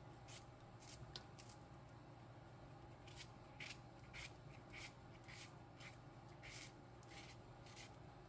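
Faint, crisp cuts of a kitchen knife slicing through an onion held in the hand, without a cutting board, in a steady run of short strokes.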